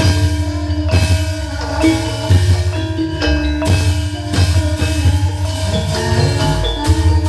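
Javanese gamelan music: ringing metal mallet instruments holding sustained notes over a steady, pulsing drum beat.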